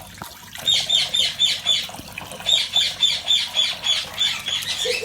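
Indian ringneck parrot giving a rapid series of repeated shrill squawks, about four a second, with a short break partway through.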